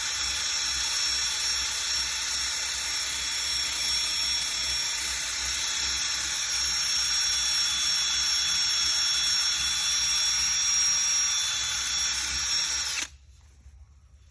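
Power sander with a sanding pad running steadily against a metal hood, stripping old paint, with a high steady whine over a hiss. It shuts off suddenly about a second before the end.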